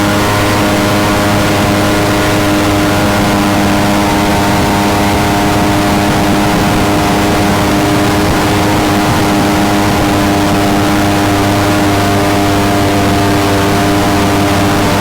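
Mini jet boat engine running at a steady, even speed under way, with a rushing noise underneath.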